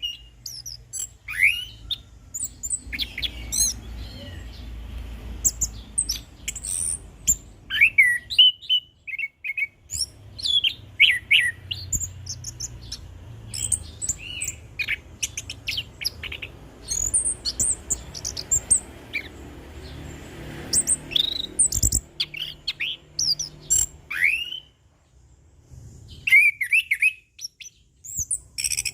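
Chestnut-capped thrush (anis kembang) singing a long, varied song of quick whistles, chirps and trills, broken by two short pauses. A low background rumble runs under much of it.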